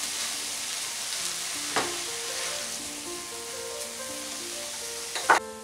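Masoor dal and chopped vegetables sizzling in hot oil in a kadhai while a spatula stirs them, with a sharp scrape of the spatula against the pan about two seconds in and another near the end. The sizzle cuts off suddenly near the end.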